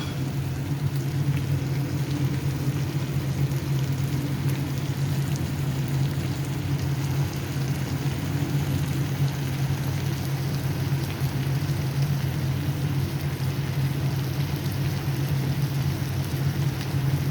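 Chicken adobo sizzling steadily in the pan as its sauce cooks down, over a steady low hum.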